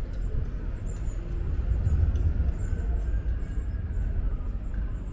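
Steady low rumble of outdoor city ambience, swelling a little about two seconds in.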